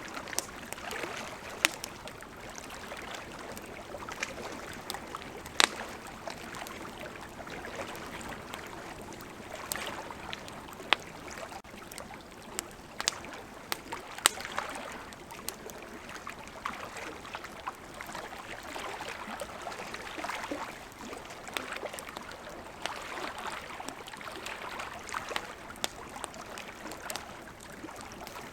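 Wood campfire crackling, with sharp single pops every second or two, over the steady sound of flowing river water.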